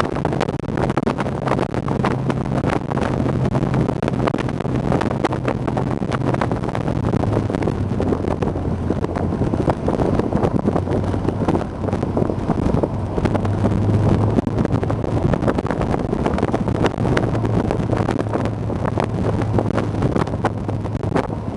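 Honda S2000's four-cylinder engine running at road speed with the top down, its pitch dropping a little about a third of the way in and climbing again near the middle, under heavy wind buffeting on the microphone.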